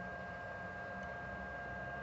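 Welding setup running: a steady hiss with a low hum and a thin, high, steady electrical whine.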